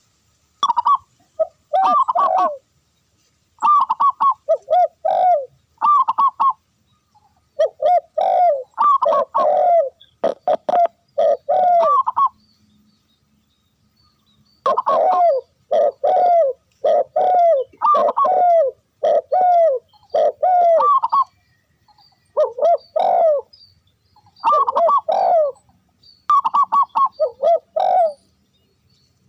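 Dove cooing loudly in repeated phrases of quick, short coos, with brief gaps between phrases and a pause of about two seconds near the middle.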